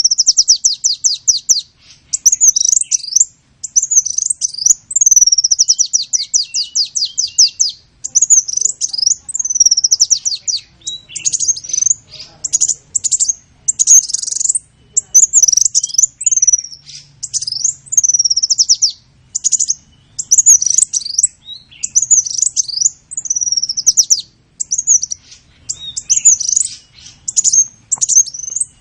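A songbird singing loud and close without a break: fast trills of quickly repeated high notes, then a string of short chirps and down-sweeping whistles.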